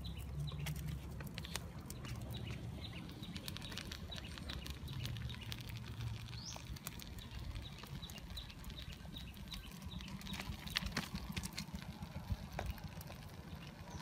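Irregular crackling and clicking from golden apple snails in their shells cooking in a tin over a small wood fire, stirred with a wooden stick, over a steady low rumble.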